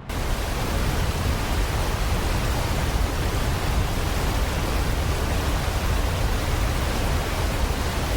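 Steady, loud roar of Niagara Falls' water crashing down, a dense even rush heaviest in the low end, cutting in abruptly at the start.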